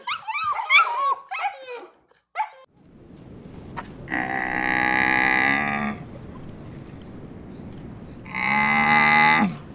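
Puppy-like yips and whimpers for the first two seconds, then a bovine lowing twice: two long, deep moos a few seconds apart, the second falling in pitch at its end.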